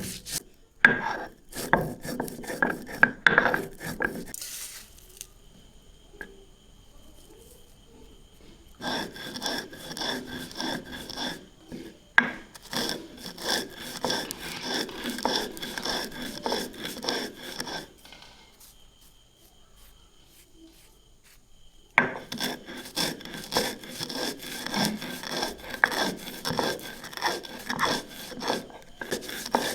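Rapid, repeated scraping and rubbing strokes from kitchen food preparation, in three bouts separated by pauses of a few seconds.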